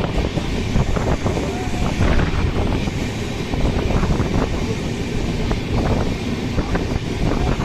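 Moving express train heard from on board: a steady rumble of wheels on the track with scattered clicks and rattles, and wind buffeting the microphone.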